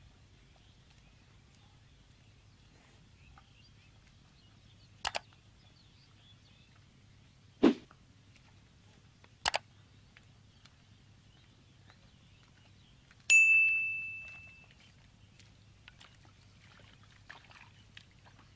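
Sound effects of an on-screen like-button animation over faint steady background noise: a double mouse click, then a dull thump, another double click, and then a bright bell-like ding that rings and fades over about a second and a half.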